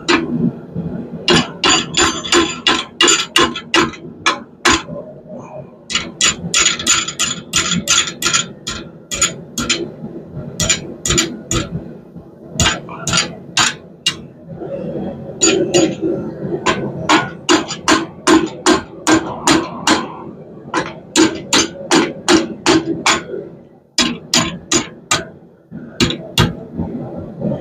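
Hand hammer striking hot half-inch round steel bar on an anvil, in runs of rapid blows about three a second with short pauses between runs, over a steady low rushing sound.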